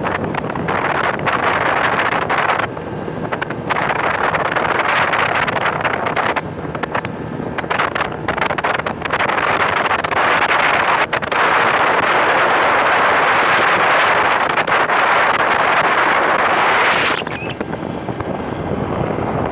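Wind buffeting the microphone on a bass boat running across the water, mixed with the rush of the boat's motor and hull. The noise surges and dips unevenly and eases near the end.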